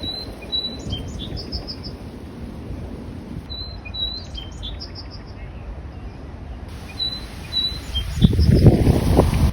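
A songbird singing short, high whistled notes with a quick trill, the same phrase repeated about every three and a half seconds. A low rumbling noise swells loudly near the end.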